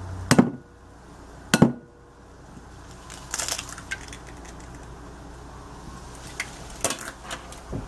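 A raw egg knocked twice on the edge of a bowl to crack its shell, then small clicks and taps as the shell is pulled apart and the egg goes into the bowl.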